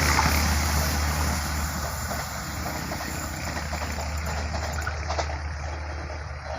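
Philippine National Railways diesel train built by PT INKA running away from the listener: its engine hum and running noise fade steadily.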